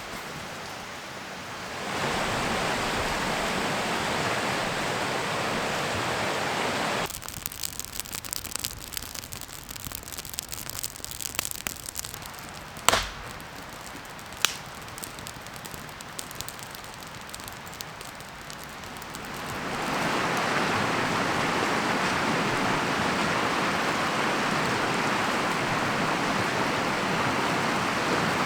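Steady rush of river water, as from rapids, in two loud even stretches. Between them comes a quieter stretch of scattered small crackles and clicks, with one sharp click in the middle.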